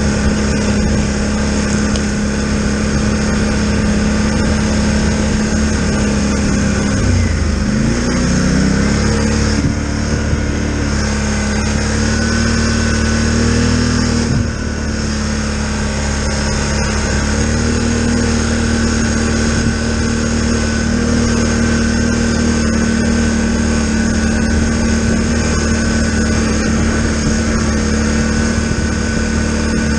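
Polaris Sportsman Highlifter 1000 ATV engine running at a steady throttle. About seven seconds in, its note drops off and climbs back, and it dips briefly again around halfway before settling.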